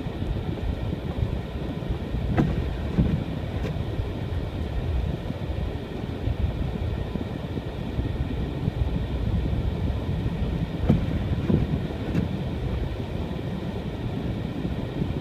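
Car driving on a snow-covered road, heard from inside: a steady low rumble of engine and tyres, with a few short knocks and bumps now and then.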